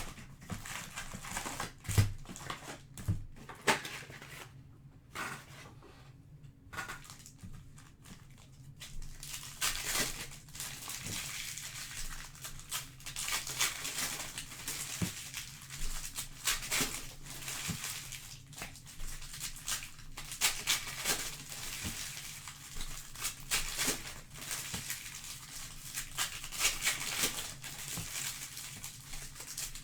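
Crinkling and rustling of packaging being handled, with a couple of sharp knocks about two and three seconds in and continuous rustling from about nine seconds on.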